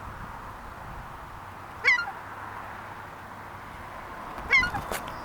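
A gull giving short calls, one about two seconds in and another near the end, over a steady background hiss. A sharp click comes just before the end.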